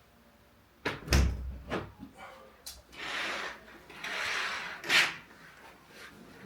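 Household knocks and clunks, like doors, drawers or cupboards being opened and shut, the loudest a heavy thump about a second in. Two short hissing rushes come around the middle, and a sharp knock about five seconds in.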